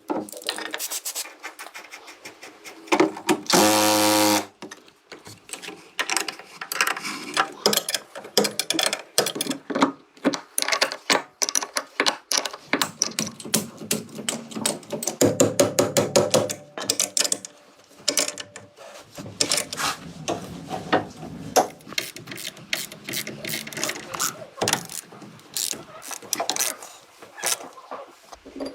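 Hand tools working on metal, with many rapid irregular clicks and clanks like a ratchet wrench. A small power tool's motor buzzes for about a second just after the three-second mark, and more weakly again near the middle.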